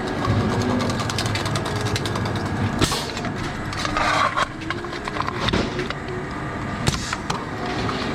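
Sheet-metal duct shop machinery running with a steady low hum and many irregular clicks and knocks, with a brief louder burst about four seconds in.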